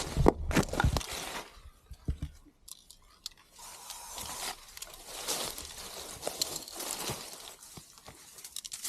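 Footsteps crunching through dry leaves and twigs on the forest floor: a quick run of sharp crackles at first, a short lull, then steadier scattered crunching.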